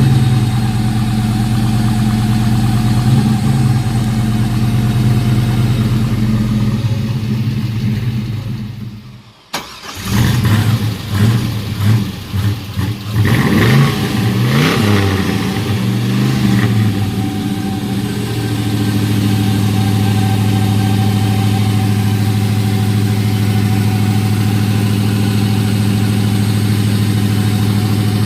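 Chevrolet 5.3-litre V8 idling steadily, cutting out briefly about nine seconds in and coming back. It is then revved several times, rising and falling, before settling back to a steady idle.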